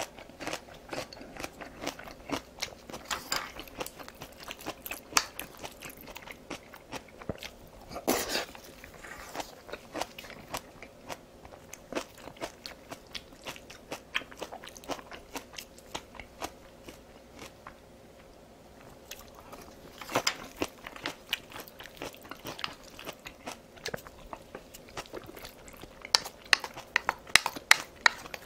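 A person chewing and biting food close to the microphone: many small crunches and wet mouth clicks, with a louder, quicker run of clicks near the end.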